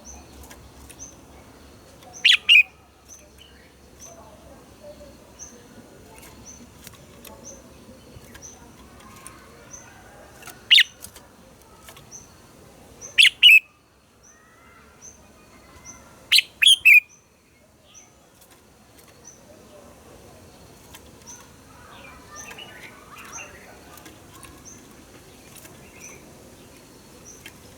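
Red-whiskered bulbul singing: four short phrases of one to three quick, loud, sharp notes, several seconds apart, over a faint high ticking that repeats about once a second.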